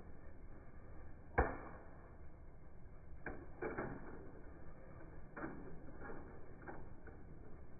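A toy police car crashing, slowed down and muffled: one sharp knock about a second and a half in, then several softer knocks and clatters as it tumbles.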